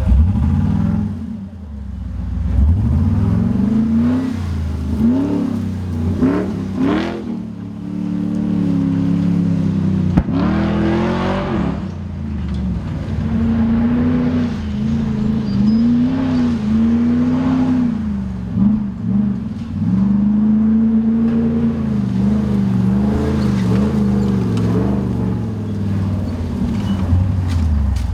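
Nissan GQ Patrol competition 4x4's engine revving hard, its pitch climbing and dropping again and again as the throttle is worked.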